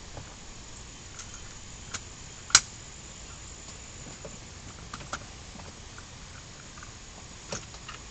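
A few sharp clicks and taps over a steady background hiss, with one much louder snap about two and a half seconds in.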